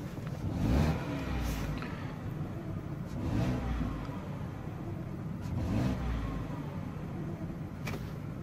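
Car engine sound that swells and falls back three times over a steady low rumble.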